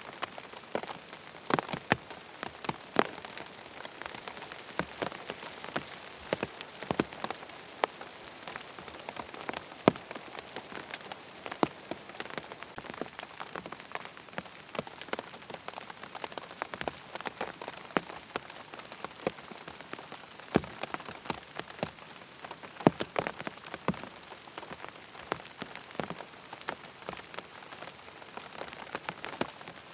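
Steady rain falling: an even hiss with many separate drops tapping sharply and irregularly throughout.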